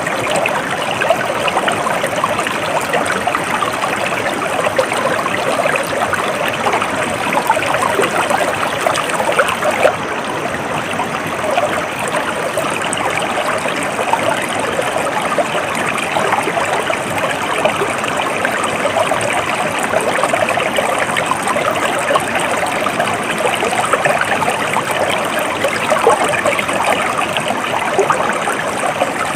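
Stream of water flowing steadily over rocks, a continuous babbling trickle.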